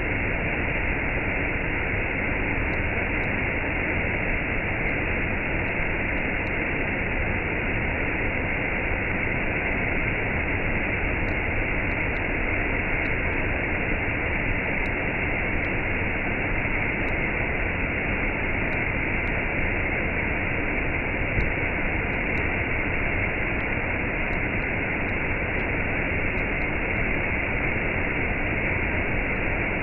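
Waterfall with a cascade: a steady, even rush of falling water.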